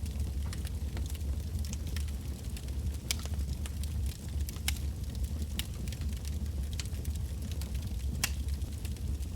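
Wood bonfire burning, with irregular sharp crackles and pops over a steady low rumble.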